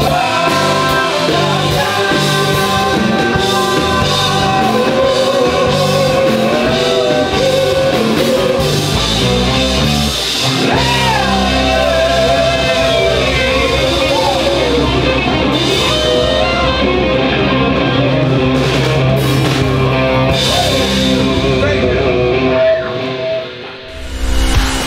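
Pop-rock band playing a song with a sung lead vocal over drums and guitars; the music breaks off shortly before the end.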